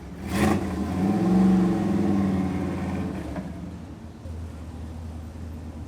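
Car engine and exhaust accelerating briefly, a short sharp burst first, then a rising and falling engine note that fades out after about three seconds; a low steady idle rumble remains.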